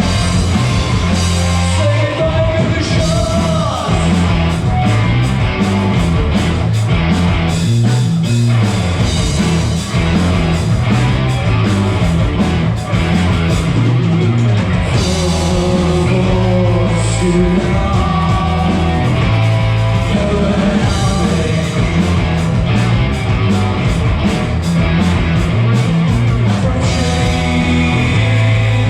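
Live rock band playing loud: guitars, bass and drums with a sung vocal line over a steady driving beat.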